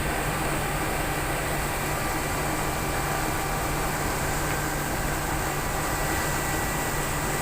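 Steady machinery hum aboard the passenger ship KM Awu, a constant rushing noise with a low drone and faint steady whines.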